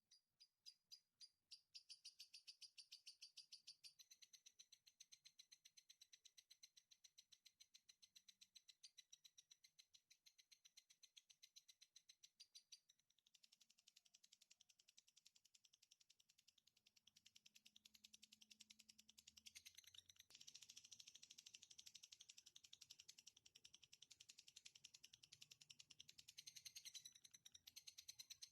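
Recorded songbird song used as a bird-training track: a faint, long, unbroken rapid chattering trill of about ten notes a second. It shifts in strength a few times and grows fuller a little past halfway.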